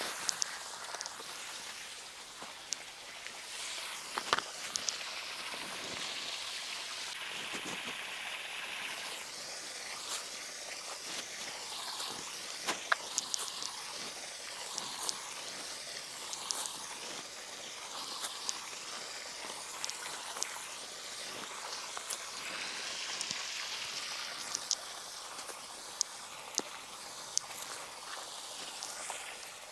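Outdoor ambience: a steady high hiss that swells and fades, with scattered short clicks and ticks.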